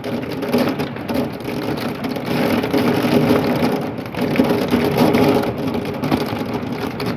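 Heavy rain and hail pelting the house and window in a severe thunderstorm: a dense, continuous patter of many fine ticks that swells and eases a little without stopping.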